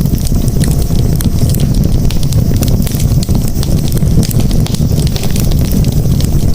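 Campfire crackling: a dense, irregular scatter of sharp snaps and pops over a steady low rumble.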